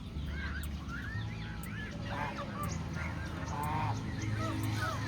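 Domestic geese honking over and over in short arched calls, several a second, over a steady low rumble.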